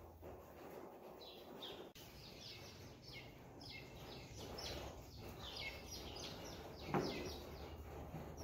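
Small birds chirping faintly and repeatedly, many short downward-sliding chirps that grow busier after the first couple of seconds, with a soft thump about seven seconds in.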